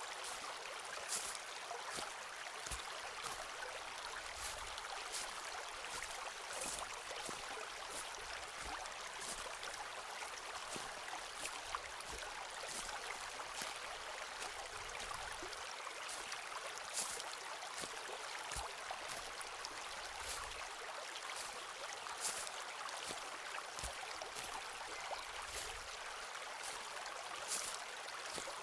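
Footsteps walking on a forest path, crunching irregularly about once or twice a second, over a steady rushing hiss.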